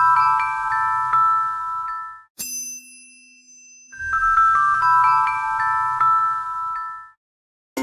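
A glockenspiel-like chime jingle: a quick run of bell notes that ring on and overlap, over a low rumble, played twice. Between the two runs comes a single short ding with a low hum.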